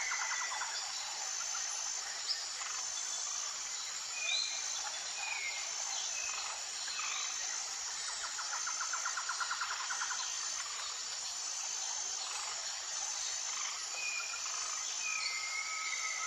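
Tropical forest ambience: a steady high drone of insects, with a short high note repeating about every second and a half. Birds call over it with brief whistled notes, a fast trill near the middle, and a long level whistle near the end.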